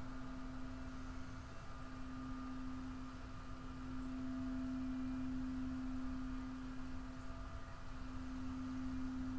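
Crystal singing bowl ringing with one steady, nearly pure low tone, growing a little louder about four seconds in.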